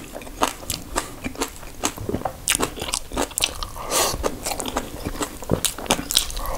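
Close-miked chewing of crunchy kimchi with rice: irregular wet crunches and mouth clicks.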